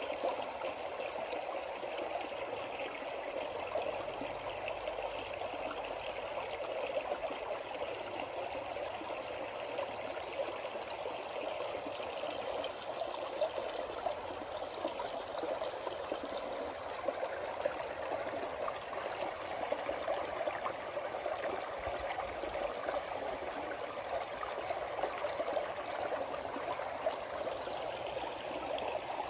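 A mountain stream, Big Tujunga Creek, running steadily.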